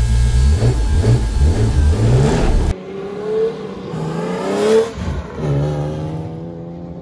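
BMW E36's M54B30 straight-six engine revving, its pitch rising again and again in quick surges. About a third of the way in the sound cuts abruptly to a quieter stretch where the engine note climbs twice.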